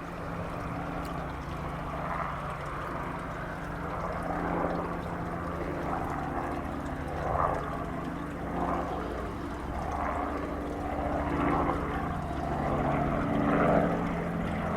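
Helicopter flying just after lifting off, its rotor and engine giving a steady low drone that swells and fades slightly.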